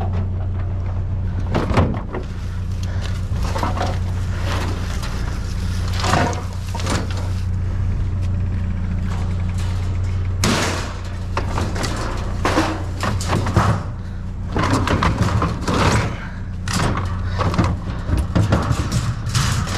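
Scrap and junk being rummaged and shifted in a dumpster: an irregular string of knocks, clanks and rattles, busier in the second half. Under it runs the steady low hum of an idling engine.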